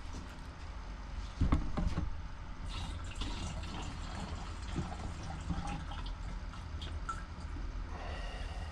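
A small amount of leftover two-stroke fuel mix pouring and dripping out of a string trimmer's fuel tank into a container, with a knock about a second and a half in and small clicks from handling the plastic tank.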